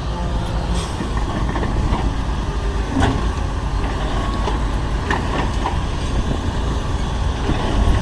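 Heavy diesel earthmoving machinery running with a steady low engine rumble, with a few short metallic clanks about three seconds in and again around five seconds.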